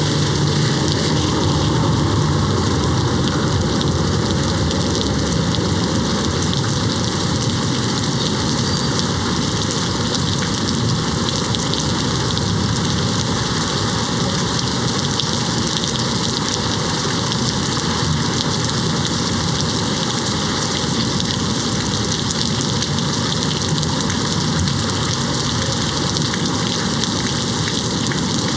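Steady rain falling and pattering on a window pane, an even hiss without let-up, with a faint low rumble in the first few seconds.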